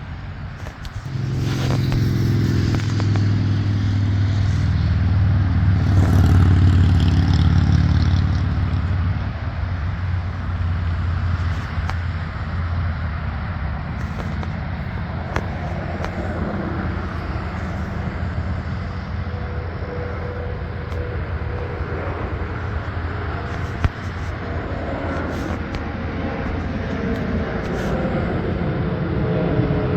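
Motor vehicle traffic: a heavy engine hum swells loud about a second in and eases after several seconds, leaving a steady rumble of passing traffic.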